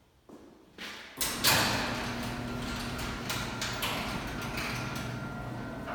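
Garage door opener starting after a couple of light clicks about a second in, then running steadily with a low motor hum and a faint whine as the door moves. The inspector says the opener's traveler is not working and the door drops on its way down, which he takes for an adjustment issue.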